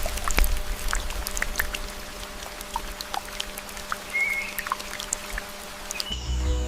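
Water dripping and trickling: many scattered drops at varied pitches over a low rumble, with a brief chirp about four seconds in. Music starts near the end.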